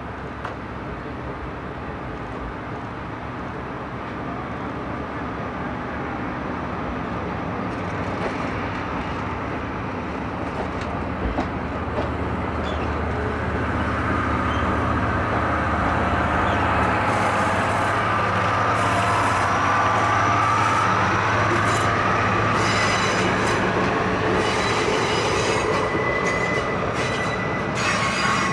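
Okuizumo Orochi diesel-hauled trolley train approaching and passing, growing steadily louder, with a steady low engine drone and rail noise. In the second half, high metallic squeals from the wheels on the rails come in.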